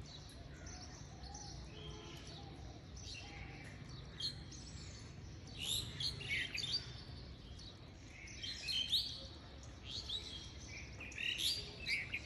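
Birds chirping: short, quick high calls that come in clusters, over a faint steady low hum.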